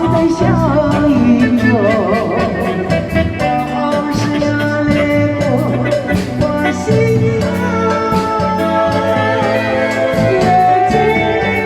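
Singing over a pop backing track with a steady drum beat and bass; the melody line wavers with vibrato.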